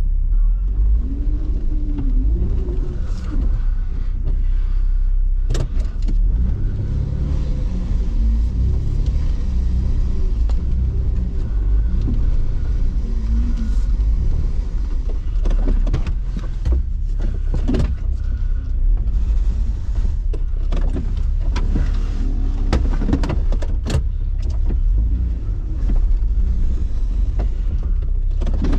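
Off-road vehicle engine running under a deep rumble, its pitch wavering up and down, with scattered sharp knocks and clicks.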